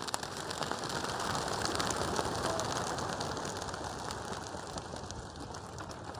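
A flock of racing pigeons taking off at once: a dense, steady clatter of many wingbeats that starts suddenly.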